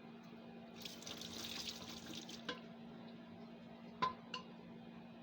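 Pickle brine poured from a pot through a small strainer, trickling softly for about a second and a half. A few light clinks follow.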